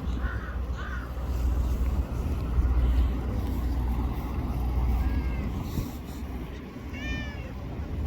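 A cat meowing twice: two short, high-pitched meows, the second about two seconds after the first, over a steady low rumble. Two crow caws come near the start.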